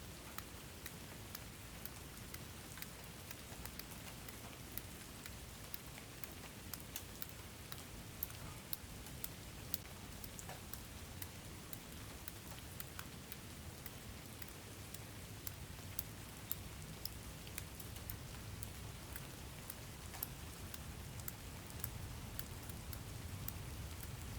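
Steady rain with individual drops ticking sharply on a hard surface over a low, even rumble of rainfall.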